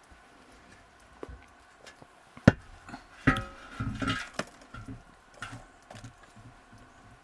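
Scattered knocks and clatter of objects being handled. The loudest is one sharp knock about two and a half seconds in, followed by about a second of clattering with a slight ring, then a few softer knocks.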